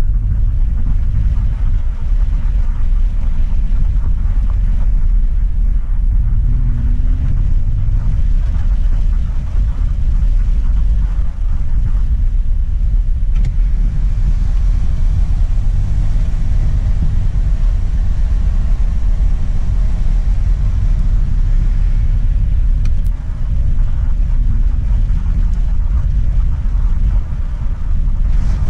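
A vehicle being driven: a steady low rumble of engine and road noise, unbroken throughout.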